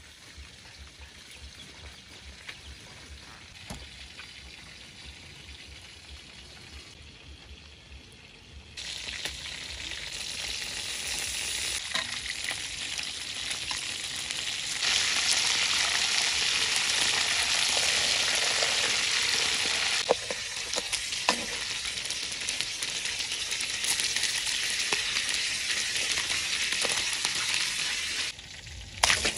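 Chicken pieces deep-frying in hot oil in a steel wok. The sizzling starts suddenly about nine seconds in and grows louder about halfway through. A metal spatula stirs the pieces, with a few scrapes and knocks against the pan.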